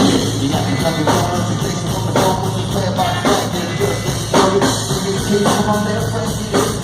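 A live rock band playing at full volume, its drum kit landing a strong hit about once a second over a steady bass line.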